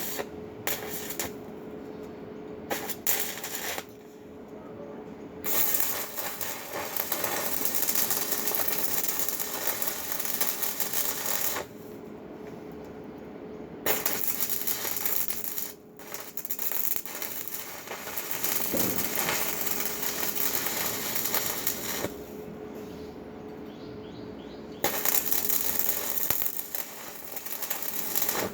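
Electric arc welding on foundation bolts: the arc crackles and sizzles in runs of several seconds with short breaks between, over a steady hum.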